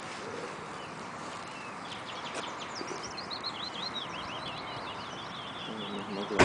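A songbird singing a fast run of high chirping notes through the middle, over a steady outdoor hiss, with a sharp click right at the end.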